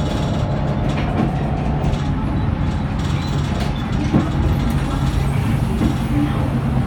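Scania K94UB bus running on the road with a steady engine drone. A single sharp click comes about four seconds in.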